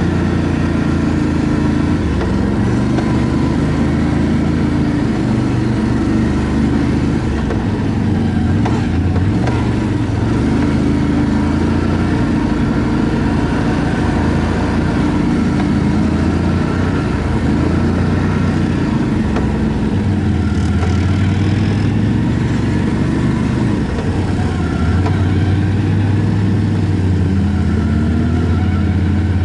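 ATV engine running steadily under way, its pitch shifting up and down repeatedly.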